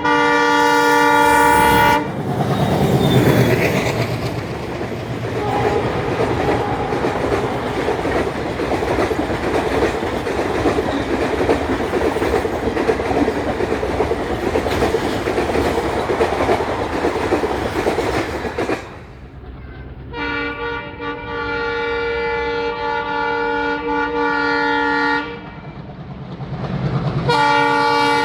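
An ALCO WDM3A diesel locomotive's multi-tone horn blasts for about two seconds, then the locomotive and its train pass at speed with a heavy rumble and wheel clatter. After a break, another ALCO-type locomotive, a WDM3D, sounds a long horn blast, and starts another just before the end.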